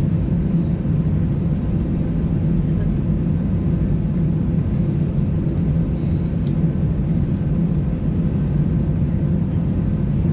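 Steady low rumble inside the passenger cabin of an Airbus A320 from its idling jet engines and air conditioning, the aircraft stationary while holding short of the runway.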